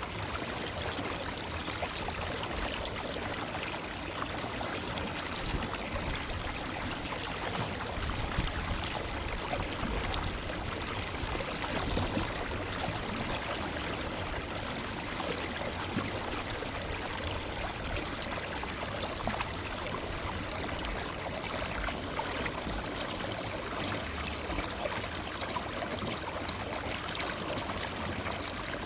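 A forest river flowing steadily, with rushing and small trickling, splashing flickers throughout.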